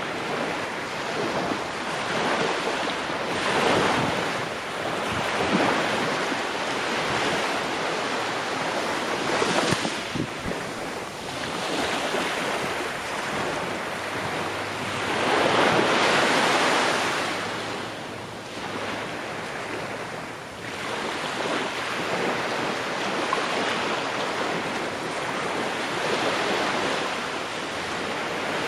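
Ocean waves breaking on the shore, a continuous rushing surf that swells and fades as each wave comes in, the largest wave about halfway through.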